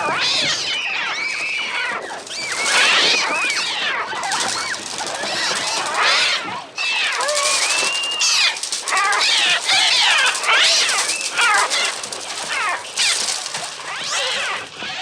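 A flock of gulls shrieking in dense, overlapping cries during an attack, in a film soundtrack, with many shrill calls sweeping up and down in pitch.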